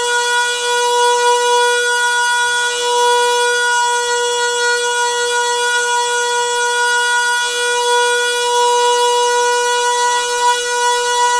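Noisy water pipe giving off a loud, steady hum at one unchanging mid pitch, with ringing overtones above it.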